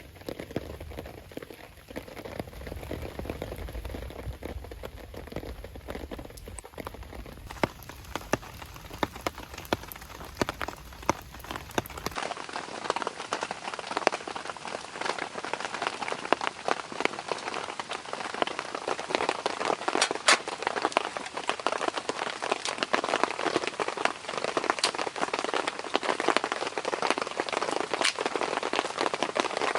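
Steady rainfall with individual drops ticking sharply, as on fabric or hard surfaces. About twelve seconds in the sound changes abruptly to a brighter patter with more distinct drop taps.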